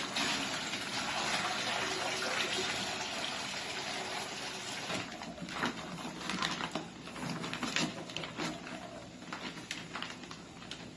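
Water pouring into a small electric egg incubator's water tray, a steady rush for about the first five seconds, then lighter trickling with scattered clicks and knocks of plastic being handled.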